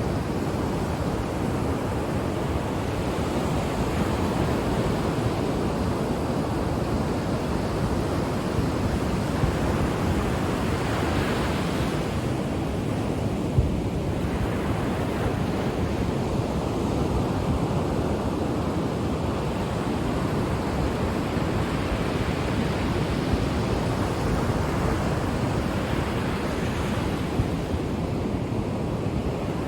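Ocean waves breaking and washing on a shore, a steady rushing surf that swells and eases every few seconds, with a rumble from wind on the microphone. A single short click about halfway through.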